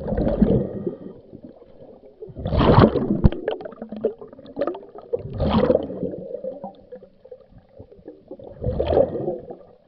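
Scuba diver's exhaled bubbles gurgling out of the regulator, four bursts about three seconds apart in time with the breathing.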